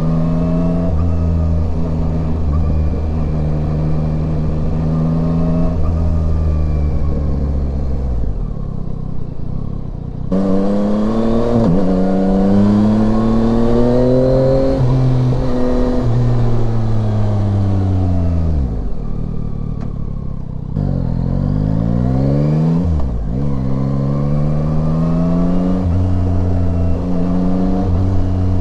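Yamaha Tracer 9's three-cylinder engine on the road. It pulls steadily, then rolls off the throttle and winds down. It picks up again with a rising pitch, shifts up, and eases off once more before accelerating through two quick upshifts into a steady cruise.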